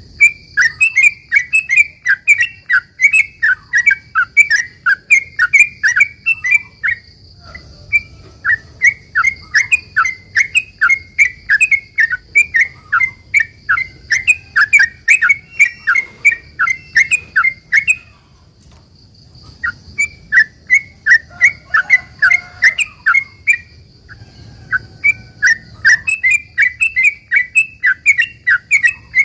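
Yellow-vented bulbul (trucukan) singing its long, fast "ropel" song: quick sharp chirping notes about three a second, in long runs with brief breaks. A faint steady high tone runs underneath.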